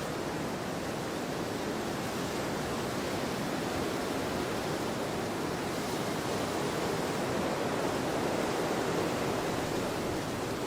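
Wind blowing across an open field: a steady rushing noise that swells gently a few seconds in and eases again near the end.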